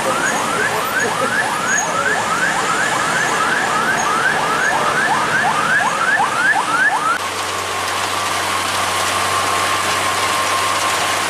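Electronic siren giving fast rising whoops, about three or four a second, for some seven seconds. It then switches to a steady high tone over the low hum of a vehicle engine.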